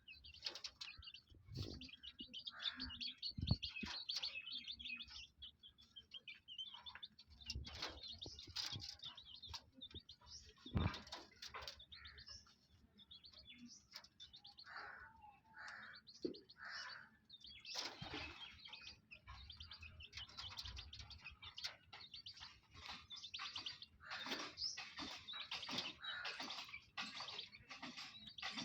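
Parrots squabbling over food, chirping and calling in rapid, busy bursts throughout, with scattered sharp clicks. The loudest clicks come about three seconds in and again about eleven seconds in.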